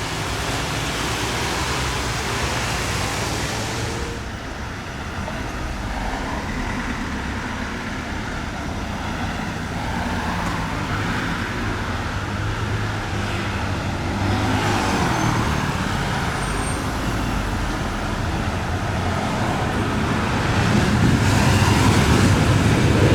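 Street traffic noise: road vehicles running past, louder near the end.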